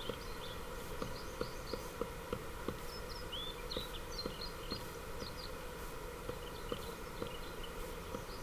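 Black woodpecker pecking at wood: single knocks, irregular at roughly two a second with short pauses, not a fast drumming roll. Small birds chirp in the background.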